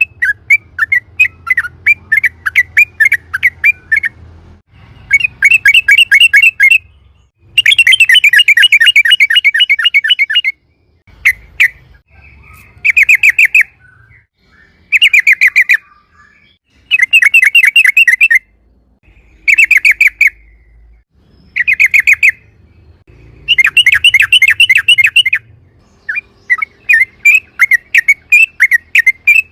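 Yellow-vented bulbul singing in rapid rolling trills: fast runs of repeated chirps, each phrase lasting one to three seconds with short pauses between, and more widely spaced chirps at the start and again near the end.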